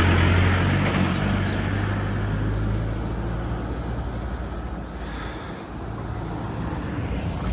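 A road vehicle's engine and road noise, loudest at the start and fading away over the next few seconds.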